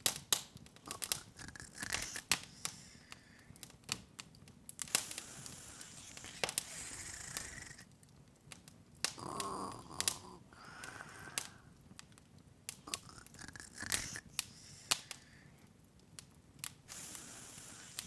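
Open wood fire crackling, with irregular sharp pops and snaps over a low hiss.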